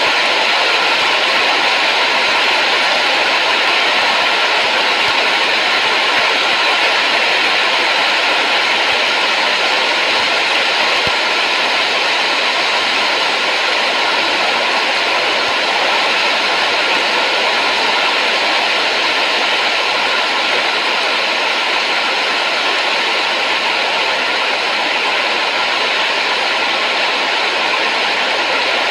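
Steady, unchanging rushing noise, like a hiss, strongest in the upper-middle range.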